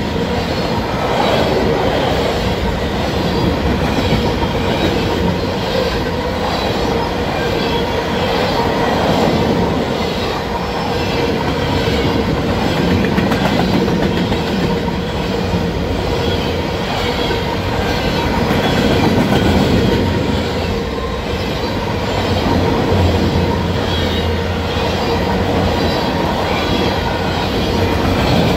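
Steel wheels of covered hopper cars in a long freight train rolling past close by: a loud steady rumble of wheels on rail with a rhythmic clickety-clack and a steady ringing tone from the wheels.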